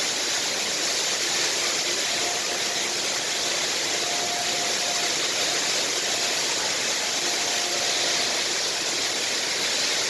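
Steady roar of water falling from the Rain Vortex, a tall indoor waterfall that pours through an opening in a glass roof into a pool below.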